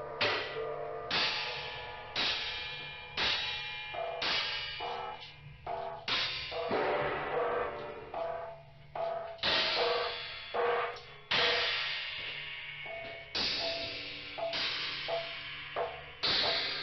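Percussion soundtrack of struck metal. Sharp hits come irregularly, about one to two a second, and each rings with clear pitched tones before dying away.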